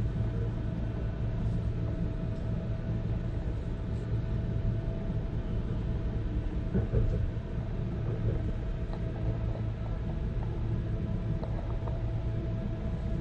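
BART train car riding along, heard from inside the passenger car: a steady low rumble with a thin steady whine above it.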